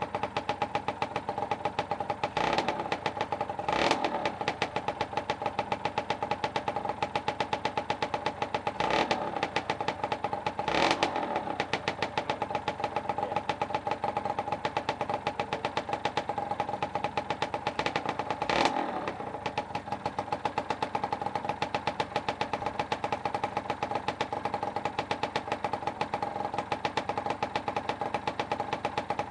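Freshly rebuilt two-stroke motorcycle engine running steadily on its first start, with the throttle blipped briefly about five times.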